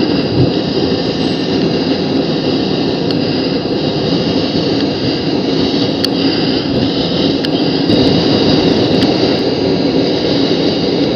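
Steady noise of a Canadair CT-114 Tutor's single turbojet engine and rushing air, heard from inside the cockpit.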